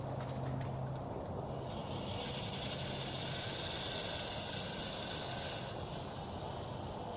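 A steady hiss that starts about a second and a half in and fades after about four seconds, over a low background hum.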